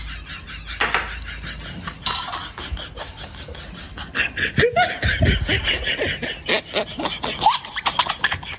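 Snickering laughter over a steady clatter of clicks like dishes and cutlery.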